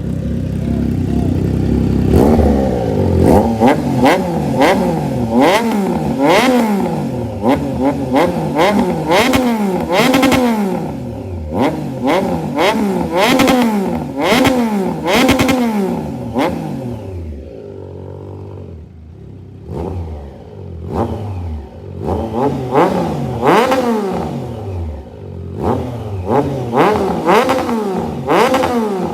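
Triumph Trident 660's inline three-cylinder engine being revved repeatedly through a full aftermarket exhaust system, each blip rising and falling in pitch about once a second. It settles back to idle for a few seconds past the middle, then the blips resume.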